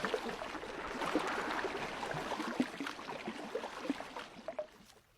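Water gently sloshing and gurgling, with many small irregular splashes, fading out near the end.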